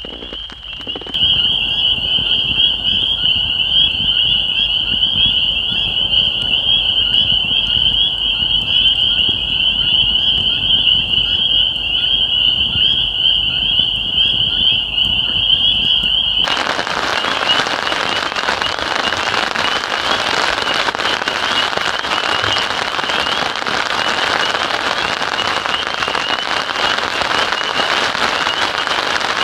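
A steady, slightly wavering high-pitched trill of a night chorus over a low crackle. About halfway through it gives way suddenly to the dense, even hiss of heavy rain, with the trill still faintly heard beneath.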